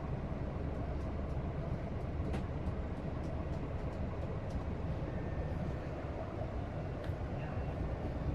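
Steady low rumble of a Scania-chassis double-decker coach's diesel engine heard from inside the cabin, with a few faint ticks and rattles over it.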